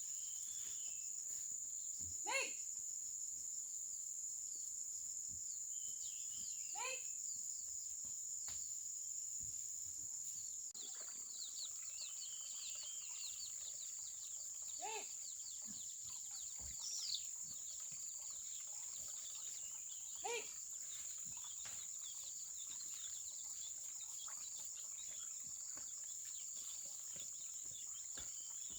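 Steady high-pitched drone of crickets or cicadas, with about five short animal or bird calls spread through it.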